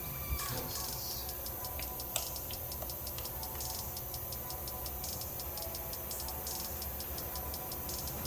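Socket ratchet clicking in fast, even ticks, loosening the coil pack hold-down bolts on a Toyota 2JZ-GTE engine.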